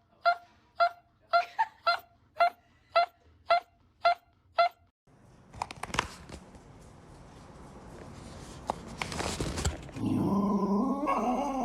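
A dog coming round from anesthesia gives short, high, pitched yelps over and over, about two a second. They stop about five seconds in and a rising hiss takes over, with a louder wavering pitched sound near the end.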